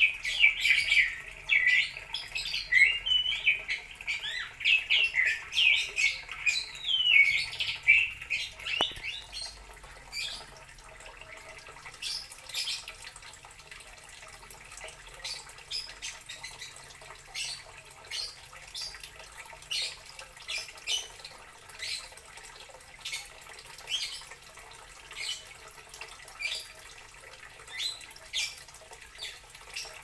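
A bird chirping and squawking in rapid, high, sliding calls for about the first nine seconds. After that come irregular sharp clicks and ticks, roughly one a second.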